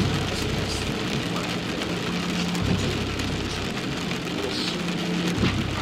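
Steady rain on a car's roof and windows, heard from inside the cabin, with low muffled bass tones underneath.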